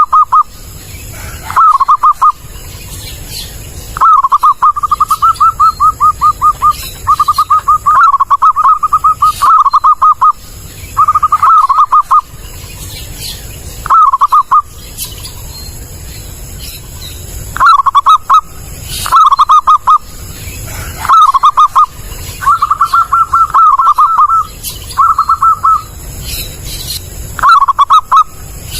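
Zebra dove cooing: repeated phrases of quick, rippling notes, each phrase lasting from about half a second to two seconds, with short pauses between them.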